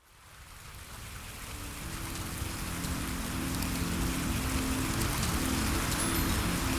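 Steady rain on a surface fading in from silence over the first few seconds, with soft sustained low tones of calm background music joining about a second and a half in.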